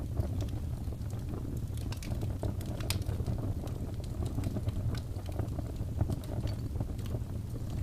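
Wood fire burning in a fireplace: a steady low rumble of flames with sharp, irregular pops and crackles, one louder pop about three seconds in.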